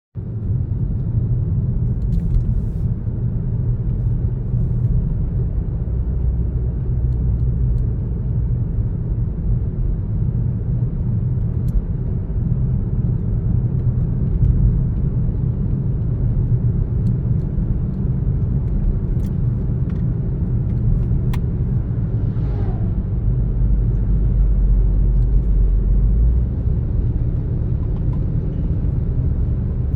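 A car driving along a road: a steady low rumble of tyres and engine, swelling deeper for a few seconds in the latter part.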